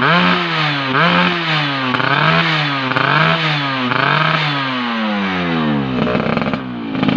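Yamaha F1ZR two-stroke engine breathing through an AHAU racing exhaust, its throttle blipped about once a second so the revs jump up and fall back five times. After about five seconds the revs drop away slowly to a rough idle.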